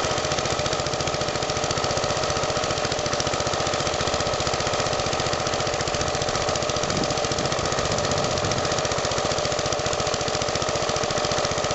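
Vintage Briggs & Stratton single-cylinder engine running steadily, a fast even stream of firing pulses.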